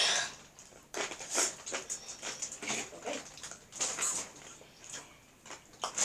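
Chewing and crunching of Flamin' Hot Cheetos and Hot Fries close to the microphone, with lip smacks and finger-licking: a run of irregular crunches and smacks.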